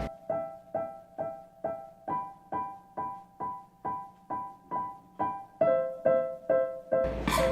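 Background piano music: a steady run of single notes, a little over two a second, each ringing and then fading.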